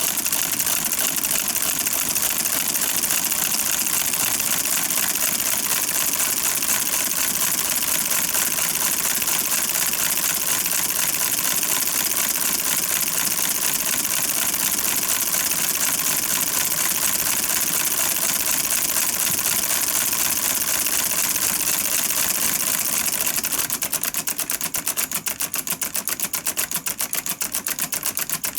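Two-stroke V8 firing-pattern demonstration giving a fast, even stream of crisp clicks, one per firing, with almost no deep engine rumble. Near the end the firing rate slows until each click can be heard on its own.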